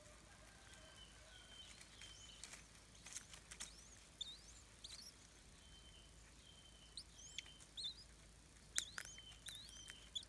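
Faint bird calls: a short, flat whistled note repeated about once a second, and bursts of sharp, quickly rising chirps, the loudest near the end.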